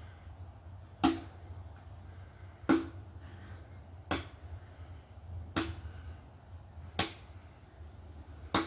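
Axe chopping firewood: six sharp strikes, one about every second and a half, over a steady low hum.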